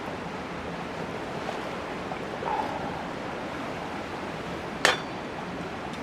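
Steady rushing outdoor noise, with one sharp crack about five seconds in and a brief faint sound about halfway through.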